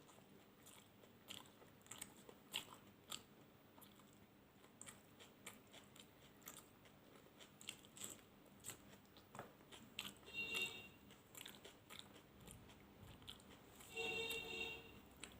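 A person chewing and biting food close to the microphone: faint, scattered small crunches and mouth clicks. Twice, about ten seconds in and again near the end, there is a brief pitched sound.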